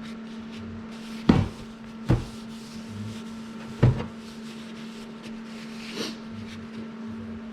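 Three sharp knocks in the first four seconds and a fainter one about six seconds in, over a steady low hum.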